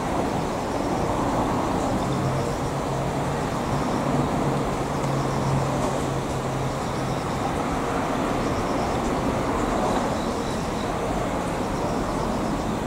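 JR 211 series electric multiple-unit train rolling slowly along yard track, a steady rumble of running gear and motors with a low hum held for several seconds in the middle.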